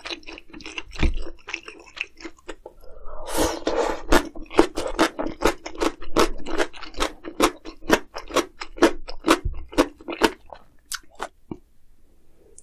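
Close-miked chewing and biting of food: quick crisp, wet mouth clicks and crunches, several a second, with a longer noisy burst a little over three seconds in. The chewing thins out and goes quieter near the end.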